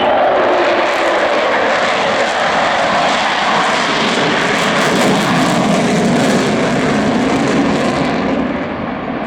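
Avro Vulcan XH558's four Rolls-Royce Olympus 202 turbojets at high power as the bomber goes into a spiral climb. The loud jet roar drops steadily in pitch over several seconds, and its high hiss falls away near the end.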